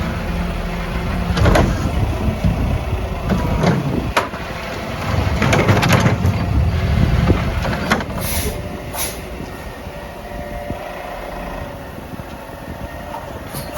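Mack LR garbage truck with a McNeilus Meridian body, its diesel engine running, with several sharp clanks and bangs; it settles to a quieter steady hum in the last few seconds.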